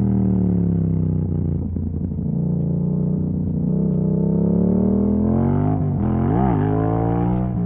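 Yamaha MT-07's 689 cc parallel-twin engine through an exhaust with the dB killer removed, its note dropping as the revs fall, then climbing steadily under acceleration, with a quick sharp rise and fall in pitch about six and a half seconds in.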